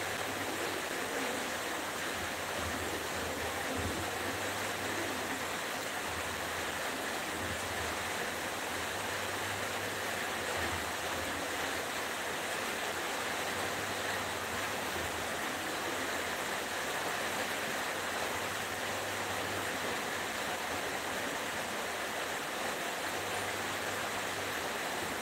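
Steady hiss from cooking in a wok on a gas stove, with a low hum that comes and goes.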